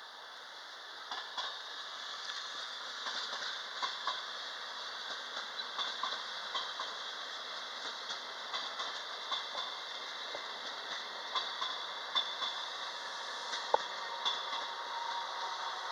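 Regional train hauled by an FS E464 electric locomotive moving along the track: a steady running noise with many irregular clicks and knocks from the wheels, gradually getting louder.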